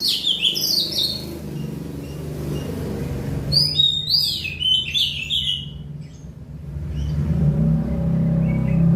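Oriental magpie-robin (kacer) singing two short bursts of quick, varied warbled phrases, at the start and again about three and a half seconds in. A low engine hum runs underneath and grows louder near the end.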